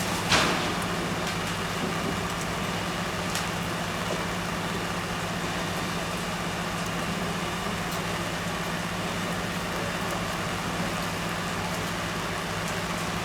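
Fire engine running steadily under a continuous hiss, with one short sharp noise just after the start.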